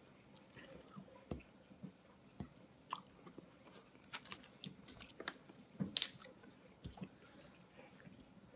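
A person chewing a mouthful of chicken fettuccine, with wet mouth sounds and small scattered clicks, one louder click about six seconds in.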